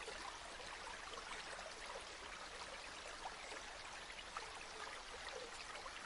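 River water flowing steadily, a constant faint hiss dotted with many small splashes.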